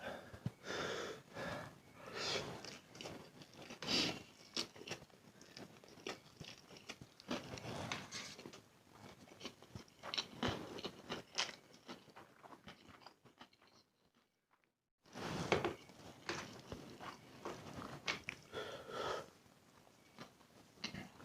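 Close-miked chewing of spicy instant noodles, with irregular wet smacks and bites. The sound cuts out completely for about a second past the middle, then the chewing resumes.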